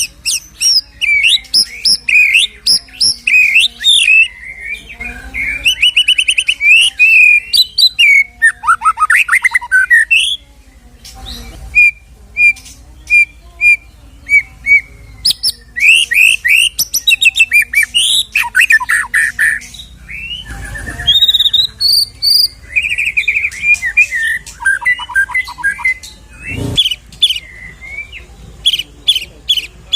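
White-rumped shama (murai batu) singing a long, varied song of fast trills, clear whistled notes and quick sweeping phrases, with short pauses about a third and two-thirds of the way through. A single knock sounds near the end.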